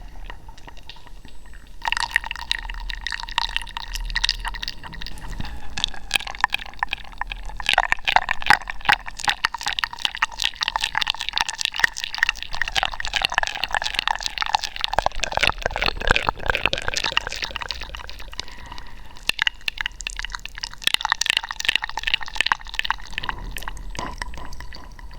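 Close-miked wet mouth sounds: dense, rapid clicking and smacking that keeps up almost without pause after the first couple of seconds.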